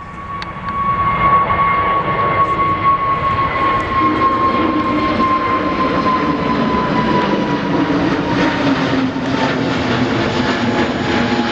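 Jet airliner passing close with its engines loud: a high whine that slowly falls in pitch over a heavy rumble. The sound swells about a second in and then stays loud.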